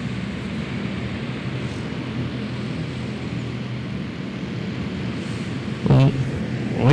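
Honda-engined dirt karts racing in a pack, a steady engine drone with no single kart standing out. A brief louder sound cuts in about six seconds in.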